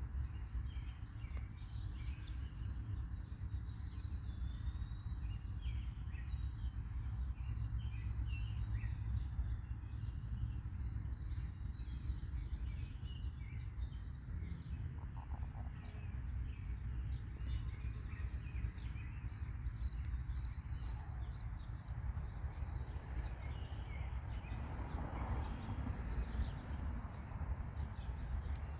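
Birds chirping and calling, with short high notes scattered throughout, over a steady low rumble. A brief louder rush of noise comes near the end.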